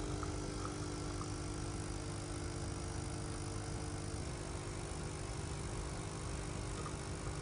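Coffee machine running with a steady hum that cuts off about four seconds in, leaving a low rumble.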